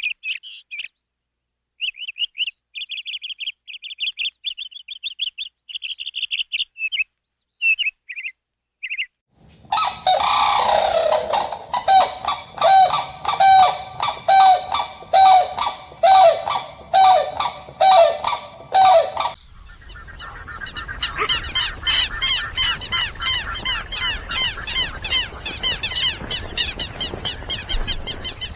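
Birds calling: a bird gives short high chirps with pauses, then about a dozen evenly spaced honking calls, like a goose's, come about a second and a half apart. Near the end comes a fast, dense run of high chirping.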